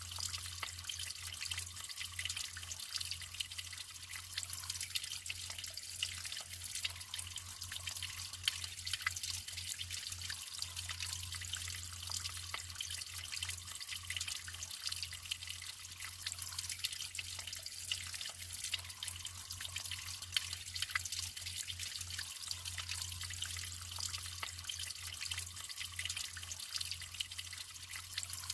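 Natural running water trickling steadily, full of small drips and splashes.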